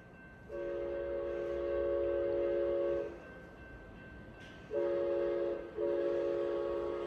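Amtrak P42DC locomotive's multi-chime air horn sounding the grade-crossing pattern: a long blast of about two and a half seconds, a pause, a short blast, then a long blast held to the end.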